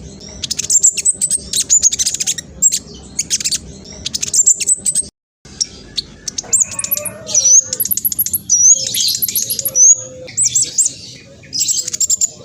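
Black sunbird singing a fast, high-pitched twittering song in rapid runs of sweeping notes. It cuts out briefly about five seconds in.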